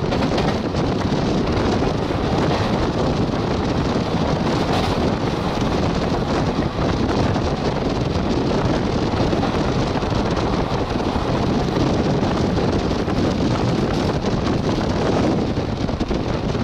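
Steady wind rush on the microphone with the running rumble of a moving passenger train.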